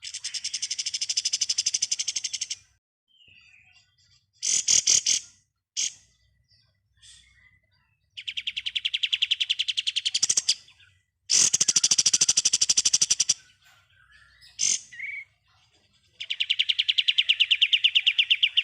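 Kapas tembak songbird singing in 'ngebren' bursts: four long, loud trills of very fast repeated notes, each about two seconds, with a shorter burst and a few single notes between them.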